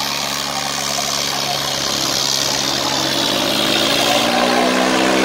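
Swaraj 855 tractor's three-cylinder diesel engine running, its pitch rising from about two seconds in as it revs up, then holding higher and a little louder.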